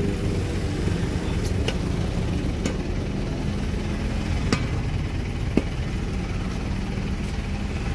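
Fire engine's motor running steadily, with a few sharp clicks or knocks over it.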